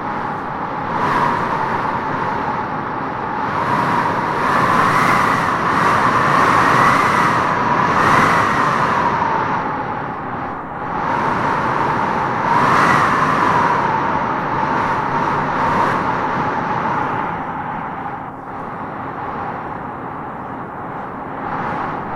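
Wind howling in gusts through trees: a steady rush with a whistling howl that swells and rises in pitch about five to nine seconds in and again about thirteen seconds in, then eases.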